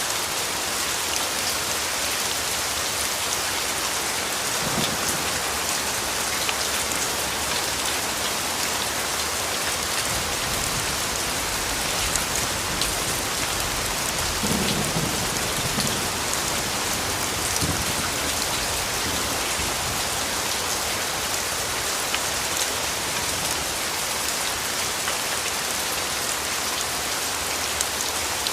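Steady rain falling on a surface, with faint individual drop ticks. There are low rumbles of distant thunder, a short one about five seconds in and a longer one around the middle.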